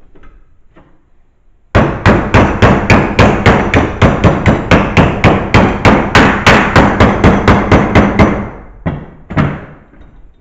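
Hammer blows on sheet metal clamped in a vise, bending a patch panel over along a marked line to form a 1-inch flange. Quick, even strikes at about four a second, starting just under two seconds in and going on for about six and a half seconds, then two single blows near the end.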